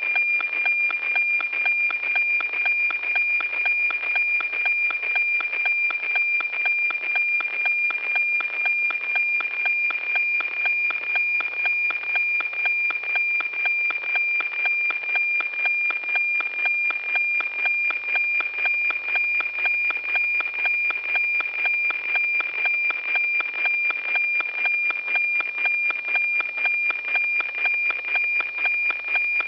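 NOAA-18 weather satellite APT signal heard through a radio receiver: a steady high tone that pulses in a fast, regular rhythm, the 2400 Hz image subcarrier carrying the picture lines.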